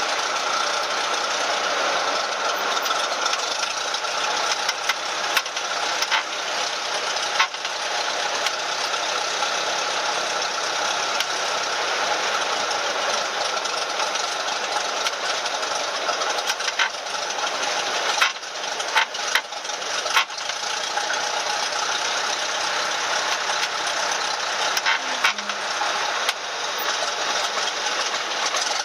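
Cessna 172M's four-cylinder Lycoming O-320 engine running steadily, heard from inside the cabin, with a few brief sharp clicks.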